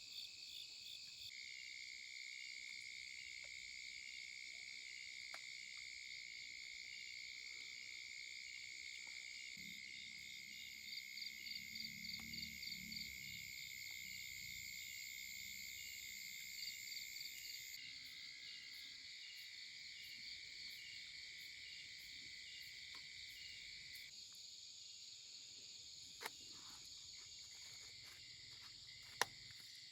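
Faint, steady chorus of insects such as crickets, several high trilling voices layered together, one of them pulsing quickly for a few seconds about a third of the way in. A few sharp clicks near the end.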